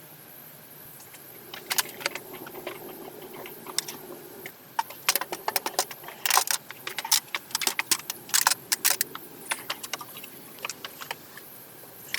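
A rapid, irregular series of sharp clicks and crackles, some clustered, densest in the middle.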